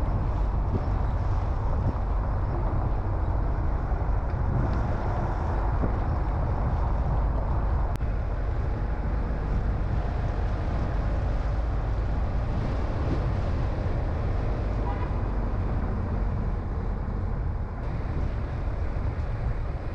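Steady rumble of a car being driven on city roads: engine and tyre noise, with a single brief click about eight seconds in.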